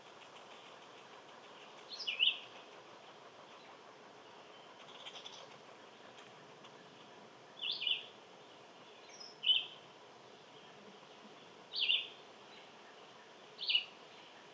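A bird calling: short, high chirps that drop in pitch, about six of them a few seconds apart, one of them faint, over a faint steady outdoor hum.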